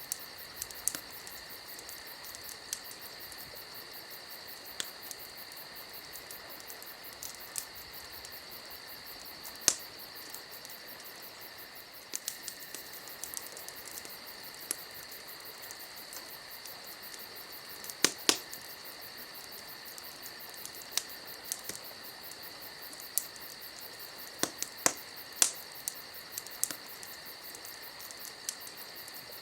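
Campfire crackling with sharp pops every second or few, the loudest about ten and eighteen seconds in, over a steady high insect chirring.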